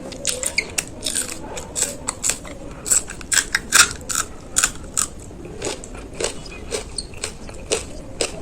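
Crisp panipuri shells crunching as they are bitten and chewed: a quick run of sharp crunches over the first five seconds or so, thinning out to scattered crunches after that.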